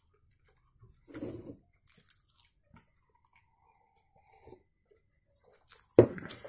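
Close-up mouth sounds of a man chewing pizza crust, then sipping an orange drink from a small plastic cup. The sounds are mostly faint, with short quiet gaps and one sharp, louder sound about six seconds in.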